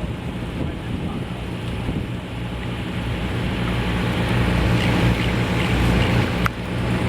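Wind buffeting the microphone over a steady low engine hum that grows louder in the second half.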